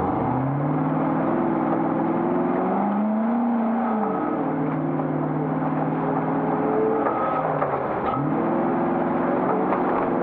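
A 1991 Classic Range Rover's 3.9-litre V8 engine working hard under racing load. The revs climb at the start, fall away about four seconds in, dip again near eight seconds, then climb once more.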